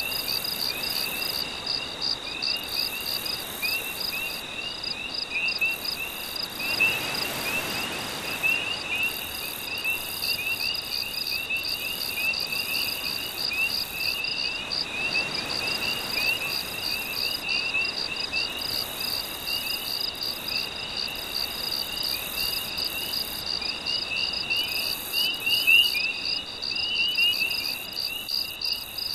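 Nighttime chorus of crickets and other insects trilling steadily, with rapid frog-like chirps mixed in. A soft wash of gentle waves swells in underneath twice.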